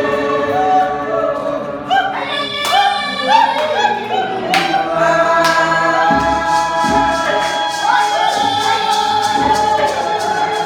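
Group singing of a gospel song at a church service, the voices holding long notes and sliding between them. About four seconds in, a steady beat of sharp strikes joins the singing.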